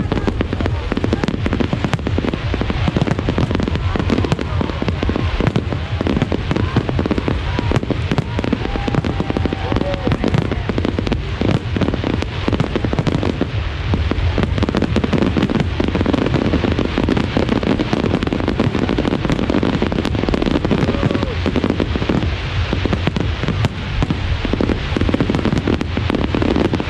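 Fireworks display: a dense, continuous barrage of bangs and crackling, with no pauses.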